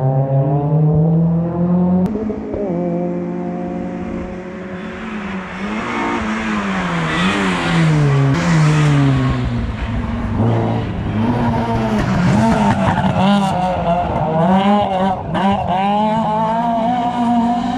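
Hill-climb race car engine at high revs, its pitch climbing and dropping repeatedly through gear changes and throttle blips. A rushing tyre noise from the wet road swells as the car passes, about a third of the way in.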